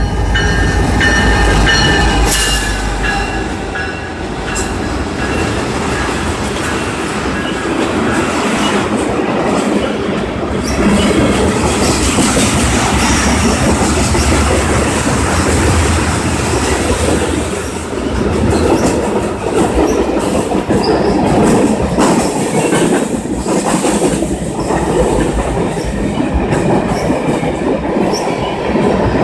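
CN freight train 345 rolling past: steel wheels clacking over rail joints in a continuous loud rumble, heaviest in the first few seconds.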